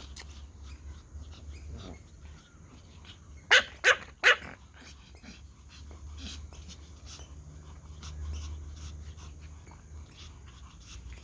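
Toy Pomeranians barking: three sharp, loud barks in quick succession about three and a half seconds in, with softer yips and small clicks scattered through the rest.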